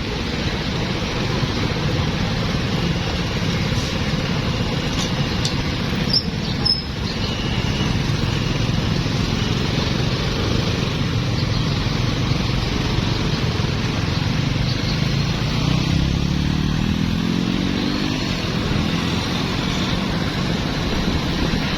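Busy street traffic of motorbikes, cars and tuk-tuks running past in a steady mix of engine and tyre noise. Between about fifteen and eighteen seconds in, one engine's pitch rises as it speeds up.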